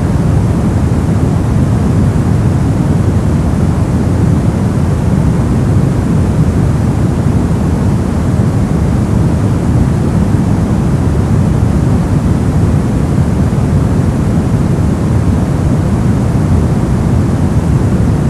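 Steady brown noise: a deep, even rumble-like hiss with most of its energy in the low end, unchanging throughout.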